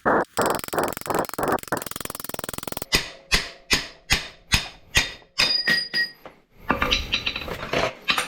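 A run of sharp metallic knocks from tools worked against bike parts, about two or three a second after a quicker rattling start, several leaving a short metallic ring.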